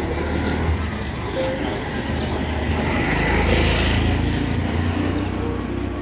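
Road vehicle noise: a steady low rumble that swells as something passes a little past halfway through.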